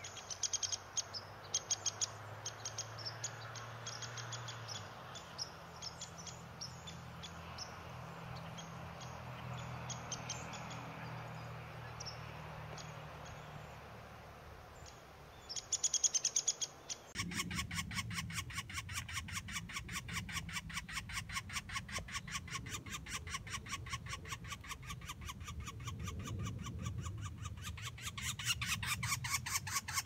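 Birds chirping: short, scattered high calls at first, then, after a sudden change about halfway through, a fast and even run of repeated chirps.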